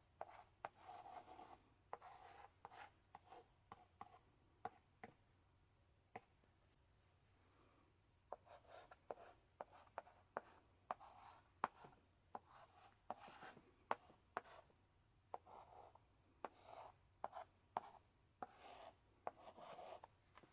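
Chalk in a chalk holder writing on a blackboard: short scratchy strokes and sharp taps as the chalk meets the board. There is a quieter pause of about two seconds about six seconds in.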